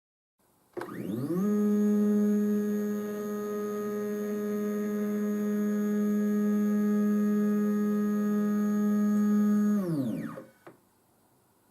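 Small spindle motor of a DIY CNC engraver spinning up with a rising whine, running at a steady high speed, then spinning down and stopping, with a faint click just after.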